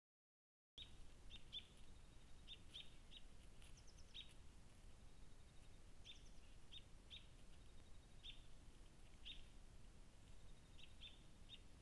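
Small birds giving short, high chirps, singly or in quick pairs and threes, scattered irregularly over a faint steady hiss.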